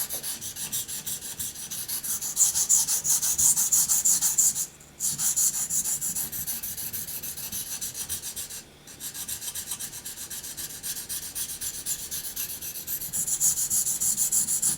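Steel knife blade being stroked rapidly back and forth across a Naniwa Chosera 400-grit waterstone, a quick even rasping rhythm of many strokes a second, paused twice briefly, about five and nine seconds in.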